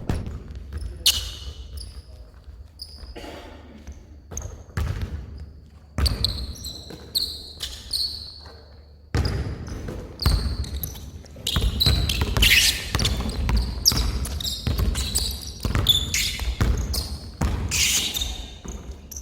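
Basketball bouncing on a court in an irregular run of dribbles, with sneakers squeaking on the floor. It gets busier and louder from about halfway through.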